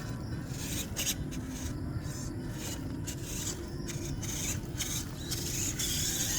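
MN99S D90 scale RC off-road truck crawling over wet dirt: its small electric motor and gears whir in short on-and-off throttle bursts while the tyres scrabble and rub on the ground.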